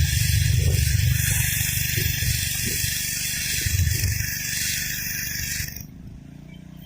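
Gas-engine pressure washer running while its high-pressure water jet hisses against concrete. The spray cuts off suddenly about six seconds in, leaving a much quieter background.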